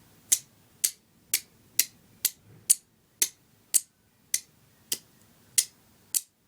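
Flint striker being struck repeatedly with its fist-held, knuckle-duster-shaped steel: a steady run of short, sharp scraping strikes, about two a second.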